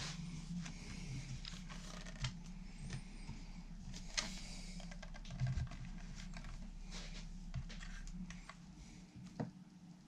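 Small clicks, taps and knocks of parts and tools being handled at a workbench, with a few louder knocks, over a low steady hum that fades out about eight and a half seconds in.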